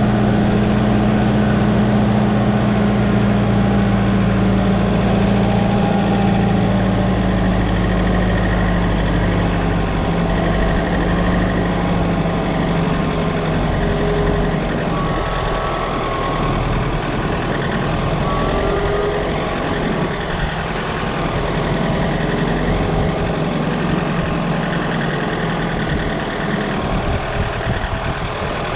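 Engine running steadily, its pitch easing down slowly over the first dozen seconds, then running less evenly.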